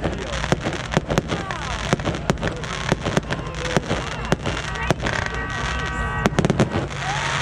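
Fireworks going off: a fast, irregular string of sharp bangs and crackles over a crowd's chatter, with a steady high tone joining about five seconds in.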